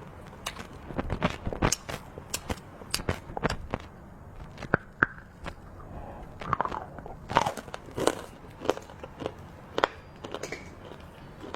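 Close-up crunching and chewing of hard, crunchy chocolate treats: irregular sharp crackles and snaps of bites and chews, several a second, with short pauses between.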